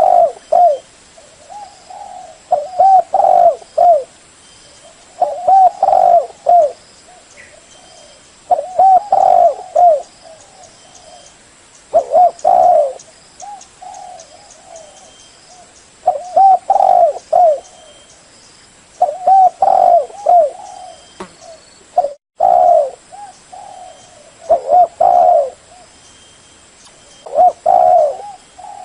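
Spotted dove cooing: loud, close phrases of low coos repeated about every three seconds.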